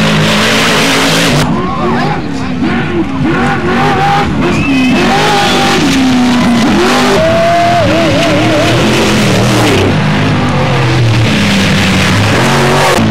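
Desert-racing trophy trucks running loud at speed, the engine and exhaust noise filling the whole stretch with a brief dip a couple of seconds in, while voices shout over it.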